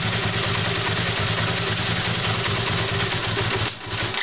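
Honda CX500 V-twin motorcycle engine idling steadily with newly fitted carburetors while its idle screw is turned down. Near the end the engine note dies away and the engine stops.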